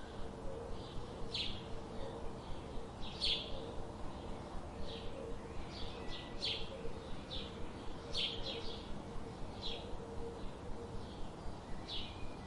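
Small bird giving short, high chirps, one about every second, over steady low background noise.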